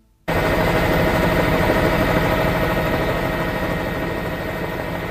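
Formula One car engines running steadily, a dense mechanical sound with a fast, even low pulsing. It cuts in suddenly just after the start.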